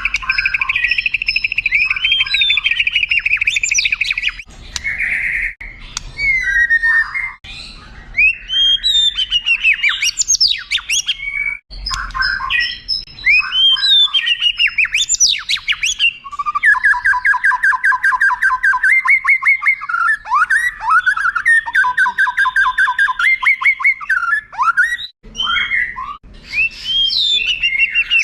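White-rumped shama (murai batu) singing a long, varied song: clear whistles, quick up-and-down sweeps, harsh notes and fast rattling trills, as used in a tutor recording for contest birds.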